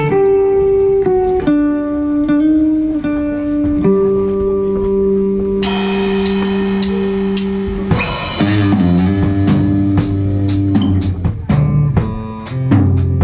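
Live rock band playing the opening of a song: electric guitar holds long sustained notes, then bass and drums come in about eight seconds in with a steady beat.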